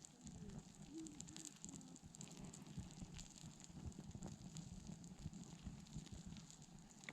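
Faint crackling of a campfire being lit, with scattered small ticks and pops as the kindling starts to catch.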